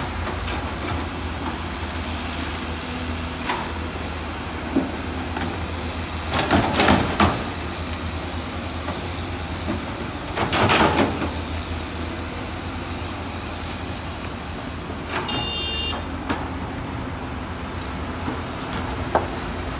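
Heavy diesel machinery engine running steadily, with two loud rushing noises about seven and eleven seconds in and a brief high-pitched tone near fifteen seconds in.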